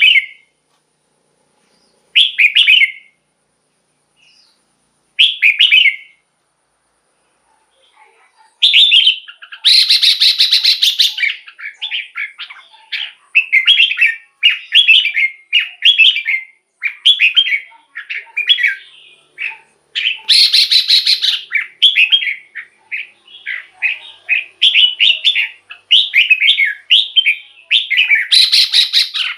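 Red-whiskered bulbul singing: three short, spaced phrases, then from about nine seconds in a fast, near-unbroken run of chirpy phrases, broken three times by louder, harsher rattling calls.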